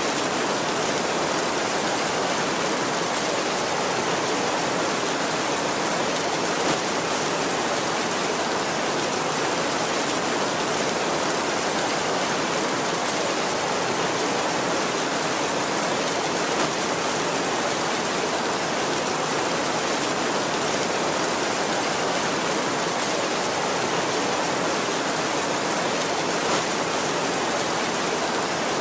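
Heavy rain falling steadily on a tin roof, an even hiss with a few slightly louder drops now and then.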